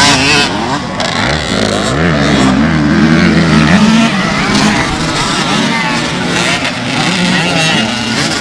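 Several motocross motorcycle engines revving at once, their pitch repeatedly rising and falling as the bikes accelerate and shift.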